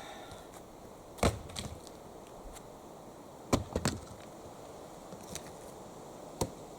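Axe chopping into wood: three blows about two and a half seconds apart, the first two the loudest, each followed by a short crackle of splintering wood.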